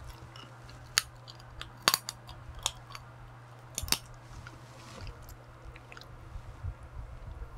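Marinated crab (gejang) shell cracking between teeth and being chewed, close on a lapel mic: four sharp cracks about a second apart, with smaller wet crunches between.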